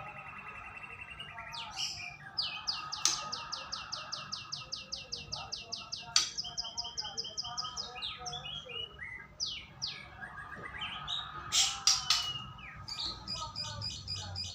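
White-rumped shama (murai batu) singing a varied song: long fast runs of rapidly repeated high notes, broken by short loud whistled phrases about two-thirds of the way through, with another rapid run starting near the end. This is lure song, played to get caged shamas to start singing.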